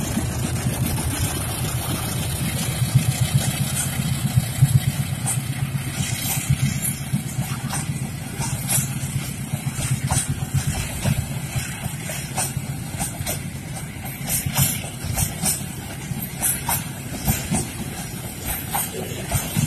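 Diesel-electric locomotive passing close by, its engine drone strongest in the first several seconds. Then the long string of rail tank wagons follows, with a steady rolling noise and many sharp wheel clicks and clatters on the track.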